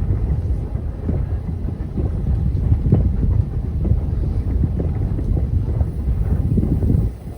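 Steady low rumble of a moving passenger train car on the rails, with wind buffeting the microphone. The level dips briefly near the end.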